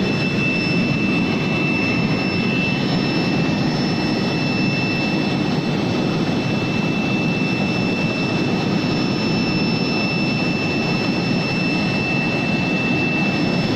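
Bubble washing machine for fruit and vegetables running: a steady high whine over a continuous rushing hiss.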